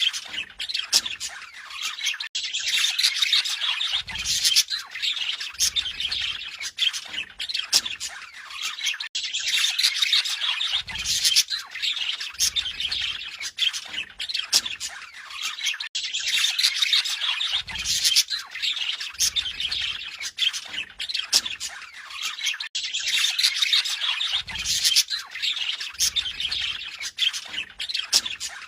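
Budgerigars chattering and warbling continuously, a busy mix of chirps, squawks and twittering. The same stretch of chatter repeats about every seven seconds, with faint low thuds now and then.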